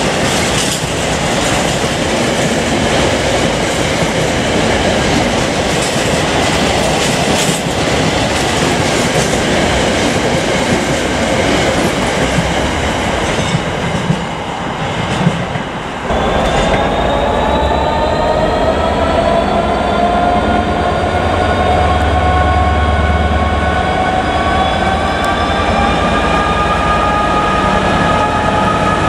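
Freight wagons rolling past on the near track, wheels clattering and rumbling over the rails. About sixteen seconds in, this gives way to a GB Railfreight Class 66 locomotive's two-stroke V12 diesel working, its engine note climbing for several seconds and then holding steady.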